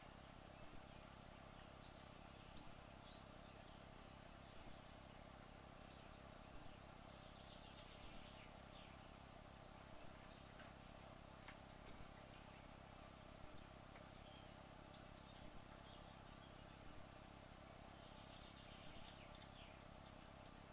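Near silence: a faint steady hum, with soft faint ticks every couple of seconds and a few faint high chirps.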